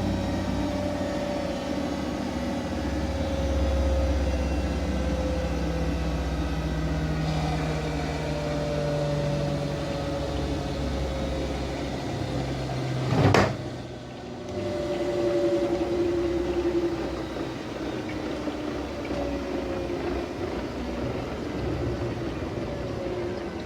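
Siemens Siwamat IQ 716 washing machine running, its drum motor humming with a whine that slowly falls in pitch, again and again. A sharp click comes about 13 seconds in, the sound briefly drops, then the motor picks up again.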